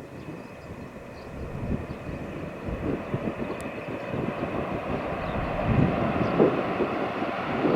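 Tokaido Shinkansen 700 series high-speed train approaching along the line, a rushing roar with a faint high whine that grows steadily louder, with wind buffeting the microphone.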